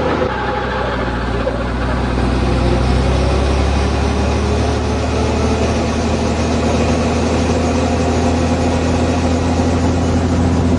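Helicopter running: a loud, steady engine and rotor drone with a fast regular beat, growing a little louder over the first few seconds.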